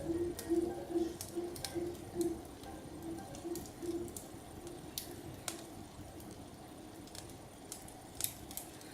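Wood fire in a fireplace crackling, with irregular sharp pops, the loudest about five and a half and eight seconds in. A soft, pulsing low tone fades out over the first few seconds.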